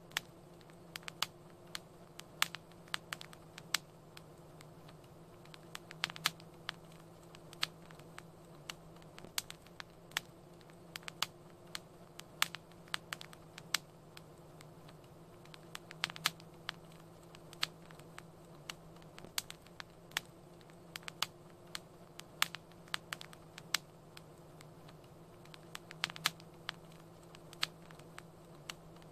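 Fire in a fireplace crackling: irregular sharp pops and snaps, several a second, over a faint steady low hum.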